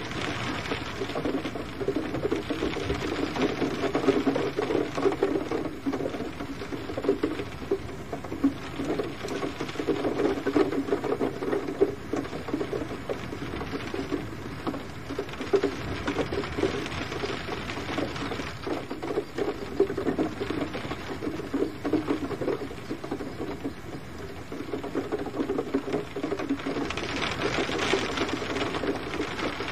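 Gentle rain falling steadily, a dense patter of many small drops on a surface, swelling briefly near the end.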